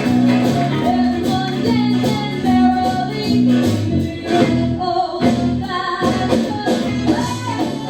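Live band music with a steady, repeating bass line and singing.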